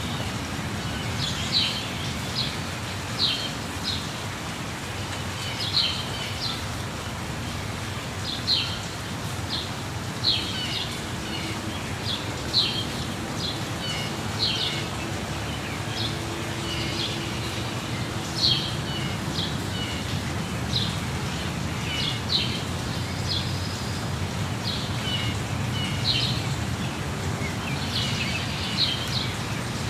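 Steady rushing of a waterfall, with birds chirping over it in short, high calls that come every second or two.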